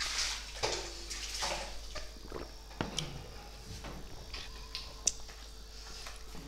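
Close-mic mukbang eating sounds: chewing and wet mouth noises, with a few sharp clicks from a cup and spoon against the dishes.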